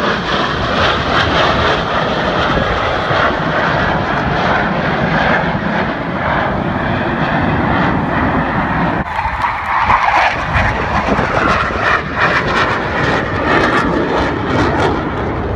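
Blue Angels jet aircraft flying past, a loud continuous rush of jet engine noise that holds steady, with a slow rise and fall in pitch around the middle.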